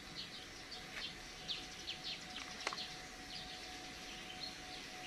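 Small birds chirping in quick, short high notes, with a faint steady hum underneath and a single click near the middle.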